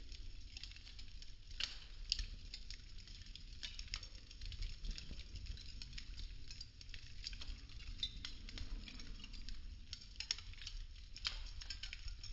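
Burning popsicle-stick wood crackling, with a dense run of irregular small pops and snaps, a few sharper than the rest.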